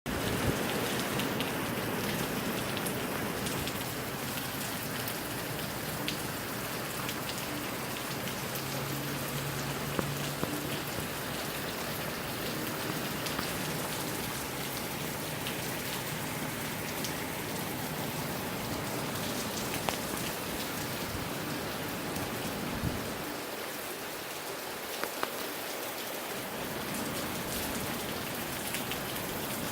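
Moderate rain falling steadily in gusty wind, with individual drops ticking sharply now and then. A low, shifting rumble underneath eases off for a few seconds near the end.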